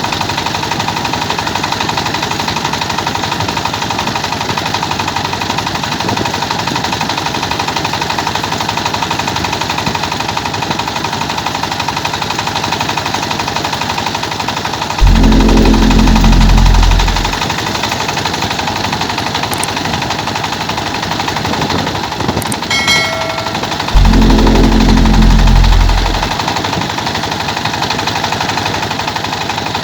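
Rice milling machine running steadily with a dense, rapid mechanical clatter. Twice, about halfway through and again about two thirds in, a louder low rumble lasting two to three seconds rises over it.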